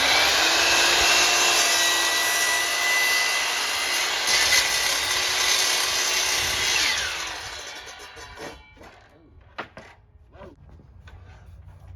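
Cordless power saw spinning up and cutting through a plywood panel with a steady whine. The motor winds down about seven seconds in, followed by a few light knocks.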